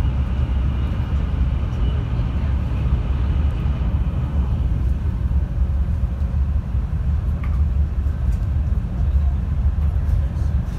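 700 Series Rail Star Shinkansen running on the line, heard inside the passenger cabin as a steady low rumble.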